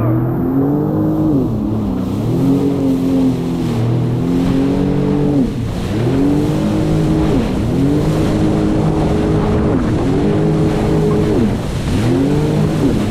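Personal watercraft (jet ski) engine running hard over choppy water, its pitch dipping and climbing back four or five times as the revs drop and pick up again.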